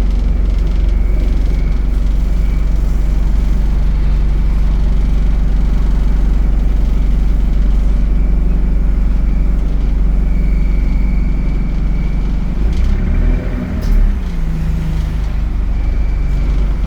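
ADL Enviro 200 bus running steadily, with a faint steady high whine above the engine. About 13 seconds in the pitch rises and falls, and the loudness dips briefly and then jumps.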